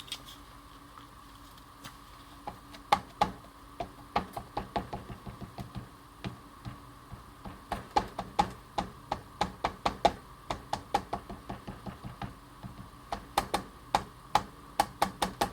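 Ink pad being dabbed repeatedly onto a stamp to ink it: quick light taps, several a second, in two runs with a short pause between them.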